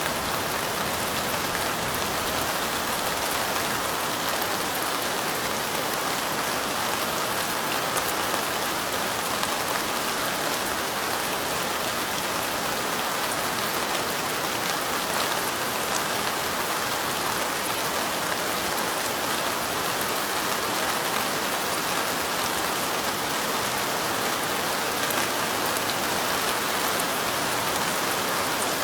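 Steady light rain, a dense even patter of many small drops falling on a surface.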